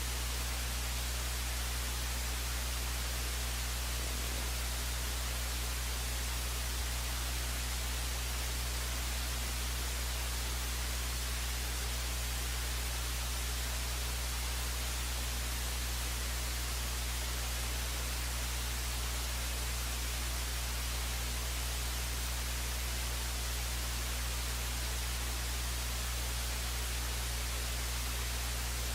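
Steady hiss with a low electrical hum underneath: the noise floor of an idle broadcast audio feed, with no game sound in it.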